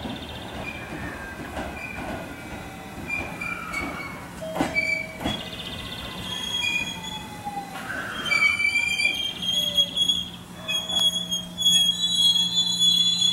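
Electric commuter train pulling in and braking at a station platform: wheels and brakes squeal with high ringing tones that slide in pitch, with a few clacks over the rail joints and a whine falling in pitch as it slows. About eight seconds in, the squeal grows louder and steadier as the train comes to a stop, and a low steady hum joins it.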